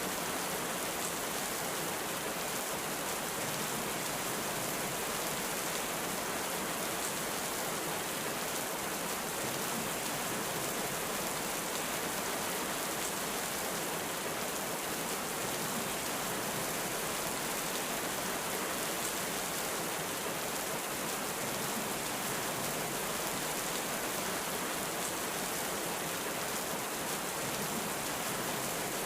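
Heavy rain falling in a dense, steady hiss, with no thunder.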